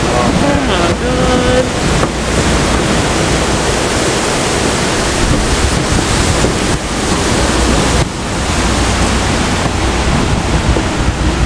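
Steady rush of wind buffeting the microphone over the low rumble of a moving train, heard from the open platform of the train.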